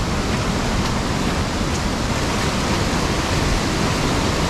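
Fast-flowing river water rushing with a steady, even noise.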